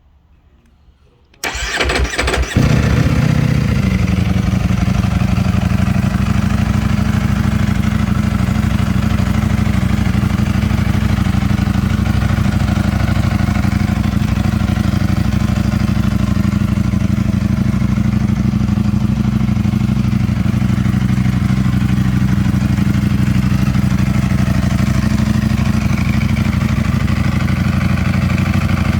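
2020 Ducati Panigale V4 R's 998 cc V4 engine is cranked by the starter about a second and a half in and catches within a second. Its revs settle briefly, then it runs at a steady idle.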